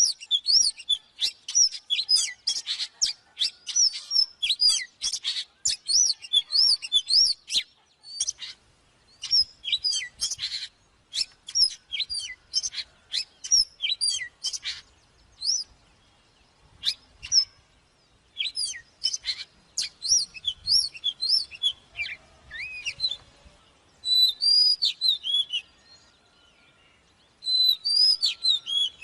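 Oriental magpie-robin singing: rapid runs of clear, varied whistled notes sweeping up and down, broken by a few short pauses.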